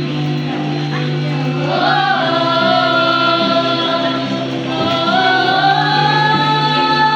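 A song: a singing voice slides up into long held notes about two seconds in and again near five seconds, over a steady low sustained accompaniment.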